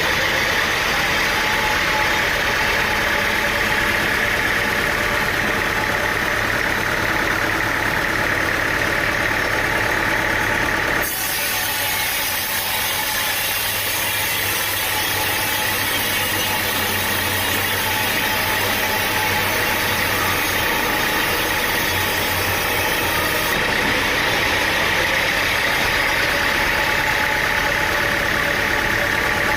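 Machinery running steadily, an engine-like drone under a band of hiss. The sound changes abruptly about eleven seconds in and again near twenty-four seconds.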